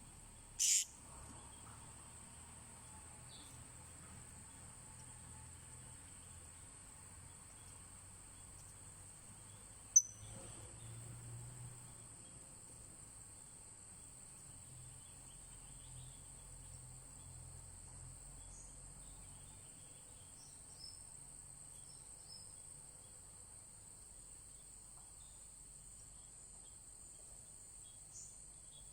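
Steady high-pitched drone of crickets or cicadas. A short loud burst comes just under a second in, a sharp click about ten seconds in is the loudest sound, and a few faint short bird chirps are heard later.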